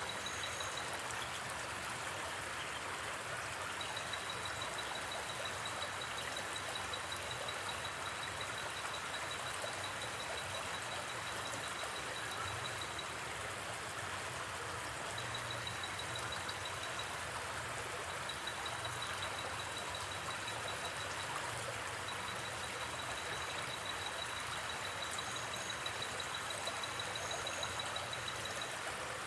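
Gentle river flowing steadily, with a night insect trilling high and fast in long stretches with short pauses.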